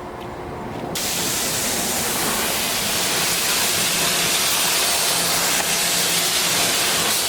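Hard water spray hissing steadily, a jet of water rinsing down a truck's painted body; it starts abruptly about a second in, over a faint low hum.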